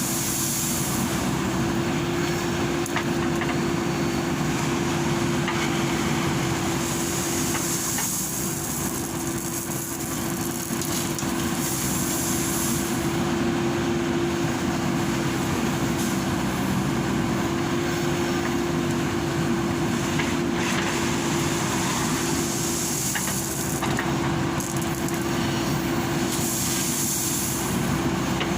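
Diesel engine of a JCB backhoe loader running steadily under load, a constant hum over a rumble, with recurring spells of high hiss every several seconds.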